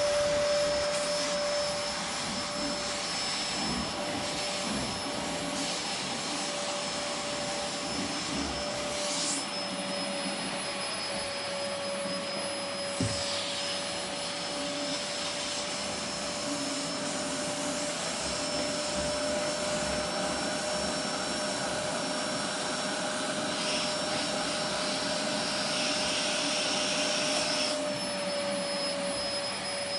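Vacuum cleaner running steadily: a rushing hiss of air over a constant motor whine. There is a single brief click about 13 seconds in, and the hiss grows brighter for a few seconds late on.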